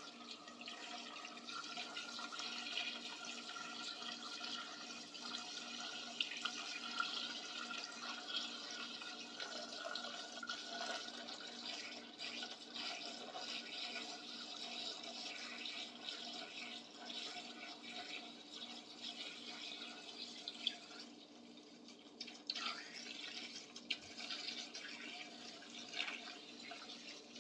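Vinegar pouring from a gallon jug into a bucket of rusty hand tools, a steady stream of liquid filling the bucket for a rust-removing soak. The pour eases off about three quarters of the way through, and a few small splashes and clinks follow.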